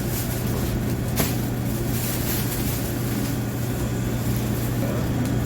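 Steady low mechanical hum over a background of noise, with a single sharp click about a second in.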